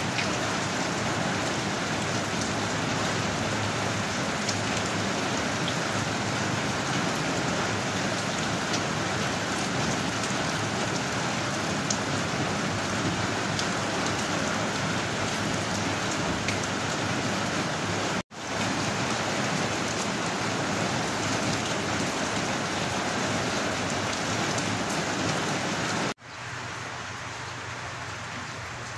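Steady rain falling, an even hiss with a few faint drop ticks. It cuts out for an instant twice, about two-thirds of the way through and again near the end, and comes back softer after the second break.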